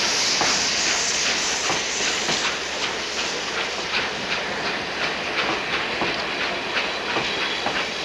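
Train running on rails: a steady, rhythmic clickety-clack of wheels over the rail joints, with a hiss that is strongest in the first couple of seconds.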